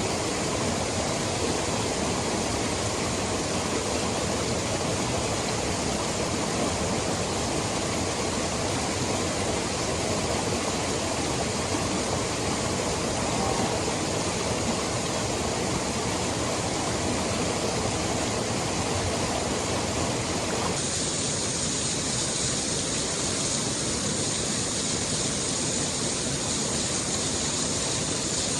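Steady rush of a mountain stream's flowing water. About three-quarters of the way through, the sound changes abruptly to a brighter, hissier rush.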